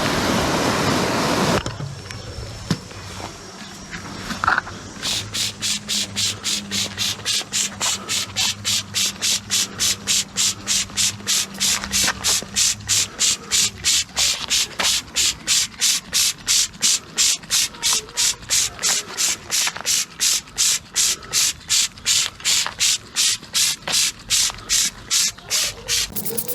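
Hose water spraying onto carpet, cutting off about a second and a half in. Then, from about five seconds in, steady rhythmic hissing strokes, about three a second, as fabric upholstery shampoo is applied to the carpet.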